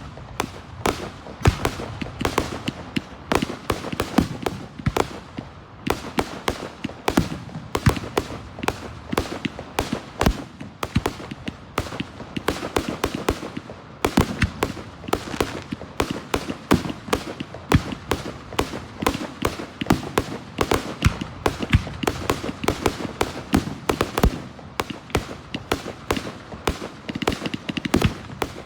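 Aerial fireworks bursting and crackling in a rapid, irregular barrage, several sharp reports a second without a pause.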